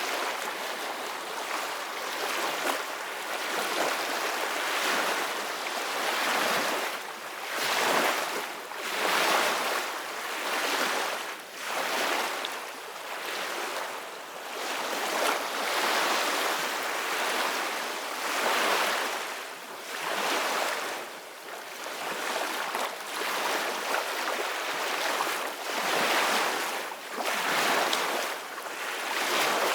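Ocean waves breaking on a shore: a steady rush of surf that swells and eases back every two to three seconds.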